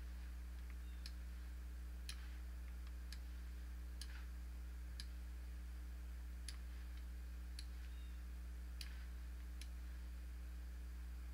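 Computer mouse clicking, single clicks roughly once a second, over a steady low electrical hum.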